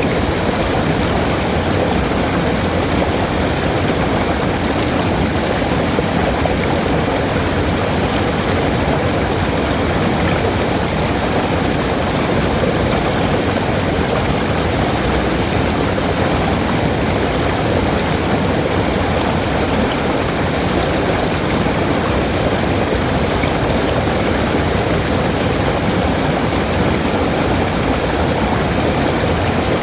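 Waterfall: a steady, even rush of falling water, with most of its weight in the low and middle range.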